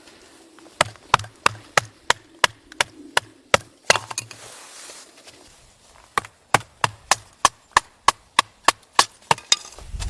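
Wood being chopped with a blade: two runs of quick, sharp chopping strikes, about three a second, with a pause of about two seconds between them.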